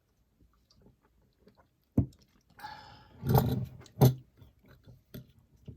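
A cup or drink container knocked down onto a desk, a second or so of sipping, then the cup set down again with a second sharp knock; two lighter taps follow near the end.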